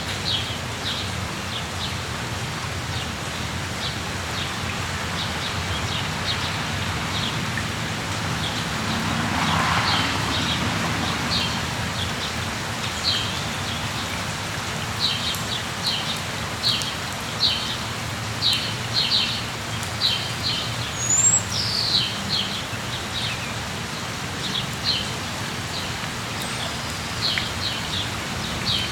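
Steady rain falling, with birds chirping over it: many short, quick chirps that grow busier past the middle, and a couple of brief whistled glides.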